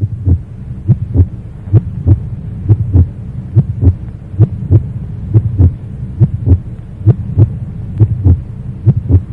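Heartbeat sound, a steady lub-dub double thump repeating a little more than once a second, about 68 beats a minute.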